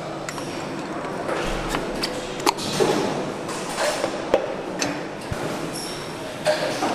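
Small metal parts clinking and tapping against each other and a hard surface in irregular sharp knocks, as pieces are handled during engine assembly.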